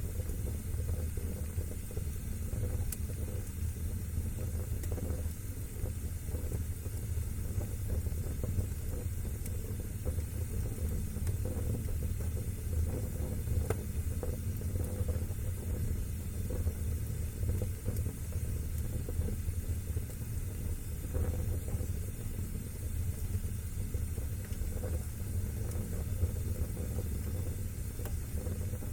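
Wood fire burning in a fireplace: a steady low rumble of flames with scattered faint crackles.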